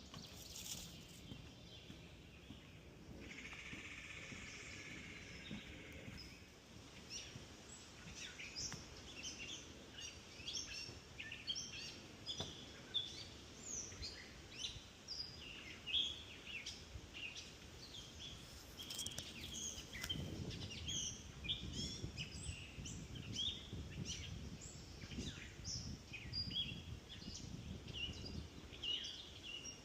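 Several birds calling and singing in swamp woodland, many short chirps overlapping, with a brief buzzy trill a few seconds in.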